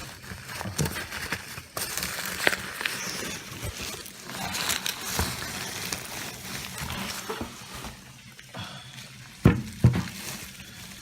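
Packaging rustling and crinkling as engine mounts are unpacked from their box, with scattered light clicks and two sharp knocks near the end.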